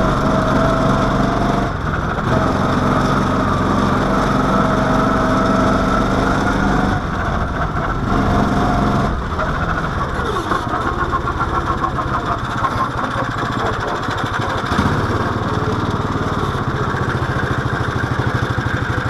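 Single-cylinder Briggs & Stratton engine of an SAE mini-baja car running, its revs dipping and changing several times, then settling into a steady idle in the last few seconds.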